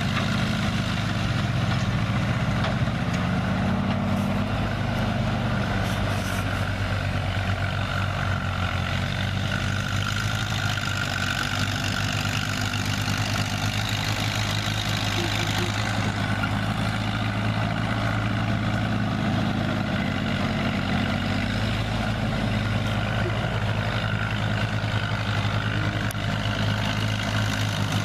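Old dump truck's engine running steadily, its revs swelling a little a few seconds in and again later.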